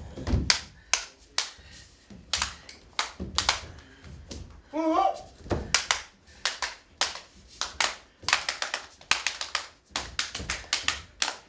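Sharp hand claps and slaps in an irregular, uneven pattern, with a few low thuds. A short vocal cry comes about five seconds in.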